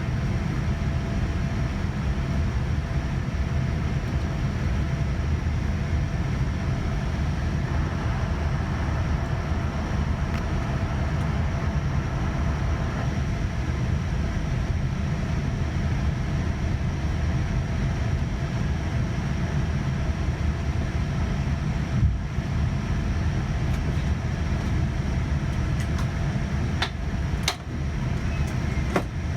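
Airliner cabin noise inside a Boeing 787-9: a steady low rumble with faint steady tones above it, and a few sharp clicks near the end.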